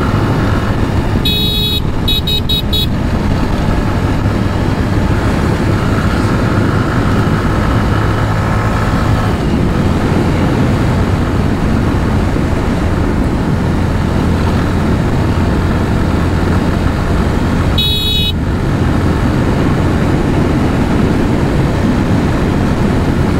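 A motorcycle riding at speed along a highway: a steady engine drone under a loud rush of wind and road noise. A vehicle horn toots in two short blasts about a second and a half in, and once more later.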